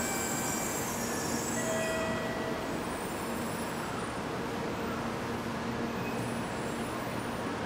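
Shinkansen bullet train rolling slowly along the platform and braking to a stop, a steady rumble with a high hiss that fades away about two and a half seconds in.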